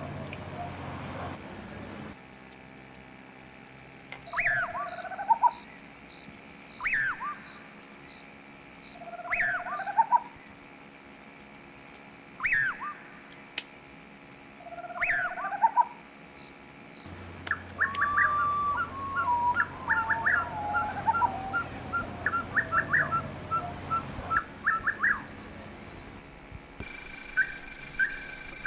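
Wild birds calling. One call is repeated about every two and a half seconds, each a falling whistle followed by a lower, rising note. Later comes a run of quick, short notes, over a fine steady pulsing of insects.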